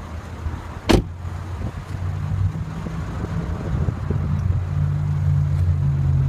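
Mercedes-Benz ML350's 3.5-litre direct-injection V6 idling, with one sharp clack about a second in; the engine hum grows louder from about two seconds in.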